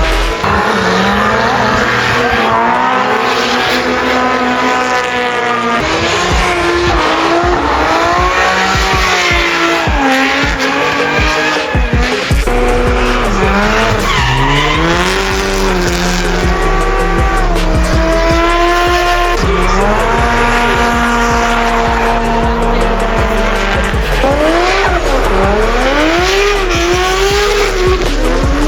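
Drift cars on track: engines revving up and falling back again and again, with tyres squealing as the cars slide.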